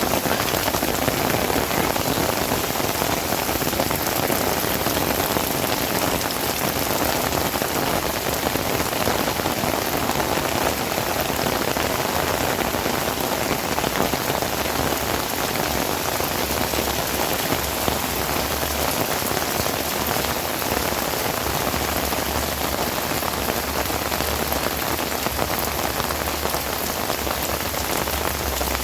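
Heavy rain pouring steadily, a dense, even hiss of drops on surfaces.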